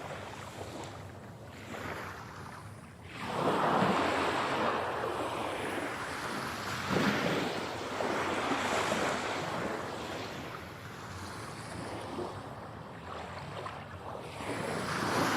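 Sea waves breaking and washing on a shore, a continuous surf rush that swells and ebbs, with a big surge about three and a half seconds in.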